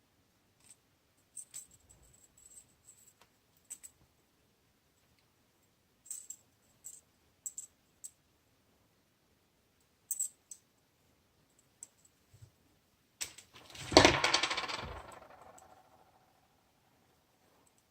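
Light, scattered clicks of jewelry pliers working stiff memory wire, then near the end a loud clatter of small metal pieces striking a hard surface, ringing and fading over about two seconds.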